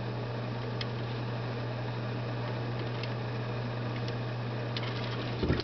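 A steady low mechanical hum, with a few faint clicks and a soft low thump near the end.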